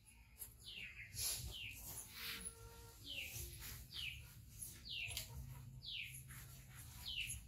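A small bird chirping repeatedly, a short falling chirp about once a second, over a faint low hum.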